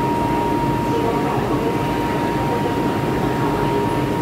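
MTR Kwun Tong line M-Train running steadily: a continuous rumble with a constant high whine.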